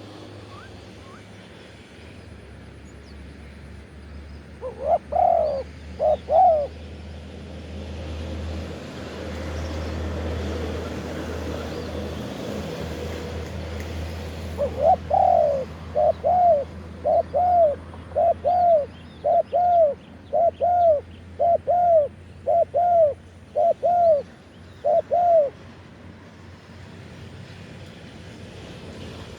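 Spotted dove cooing: a pair of coos about five seconds in, then a run of about a dozen coos, roughly one a second, from about fifteen seconds to twenty-five seconds.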